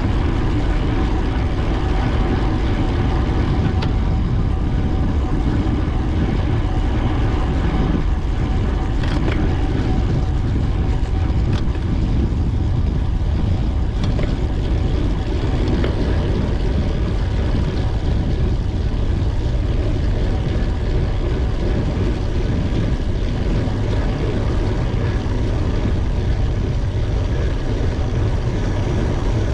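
Steady loud wind rushing and buffeting over the microphone of a cycling camera while riding, heaviest in the low rumble, with a few faint clicks.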